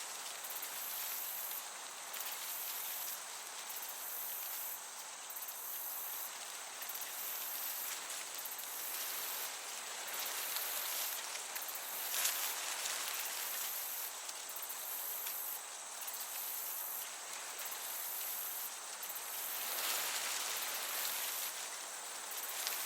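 Crickets chirping in a steady high pulsing rhythm over a gentle breeze in a summer meadow, the breeze swelling briefly twice.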